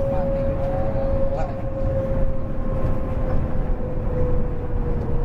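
Inside a moving double-decker coach: steady engine and road rumble with a constant whine that slowly drops in pitch.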